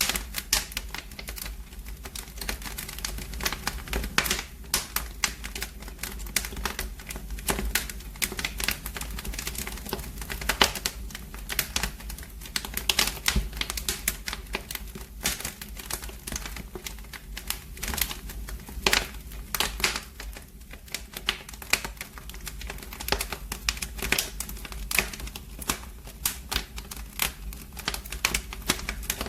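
Wood fire in a fireplace crackling: a dense, irregular run of sharp pops and snaps over a steady low rumble.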